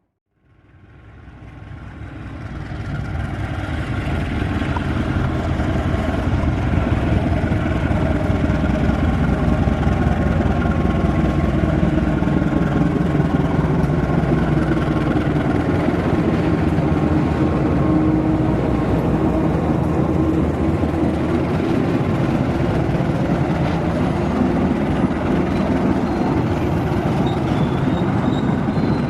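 Diesel locomotive hauling a passenger train, its engine and the train's running noise growing louder over the first few seconds as it approaches, then staying steady and loud.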